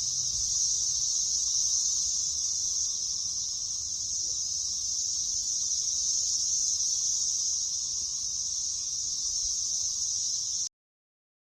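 Chorus of cicadas: a steady, unbroken high-pitched buzz, with a faint lower drone under it. It cuts off suddenly near the end.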